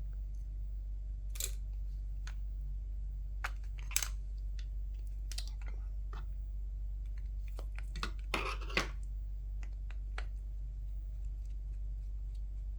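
Scattered small clicks and taps of plastic headset parts and a screwdriver being handled during disassembly, a few loudest clicks about four seconds in and a quick cluster about eight seconds in, over a steady low hum.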